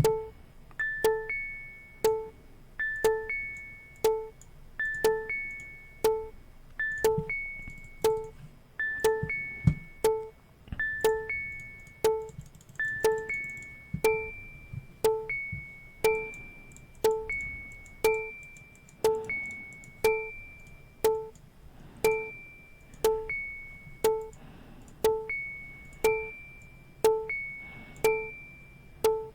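Looping electronic music pattern of short bell-like synth notes with a sharp click on each hit, repeating about once a second. About halfway through, the upper notes change pitch as the pattern is altered.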